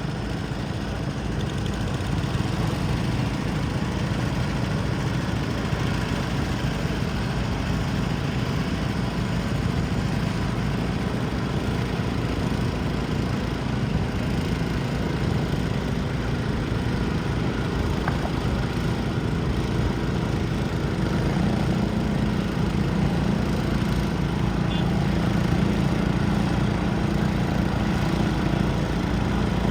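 Garden tractor engine running steadily, getting somewhat louder with a stronger low tone in the last third.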